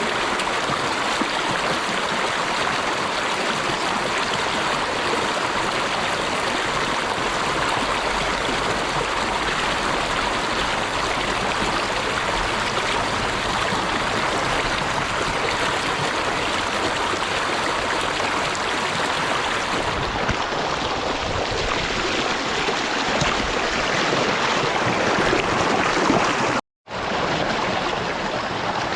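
Stream water flowing steadily, an even rushing sound that drops out for a split second near the end and then resumes.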